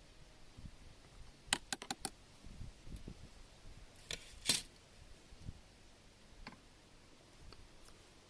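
Wood campfire crackling: irregular sharp pops, a quick run of them about a second and a half in and the loudest pair about four seconds in, with a few soft low knocks between.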